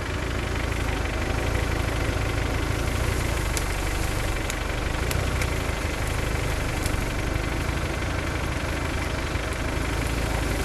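Off-road SUV engine running steadily at low revs while the vehicle is stuck on a muddy slope, with a few faint ticks in the middle.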